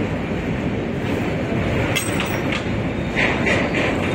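Passenger train running across a steel truss bridge, heard from an open window on board: a steady rumble of wheels on the rails. From about halfway through comes a quick series of sharp clatters, about three to four a second.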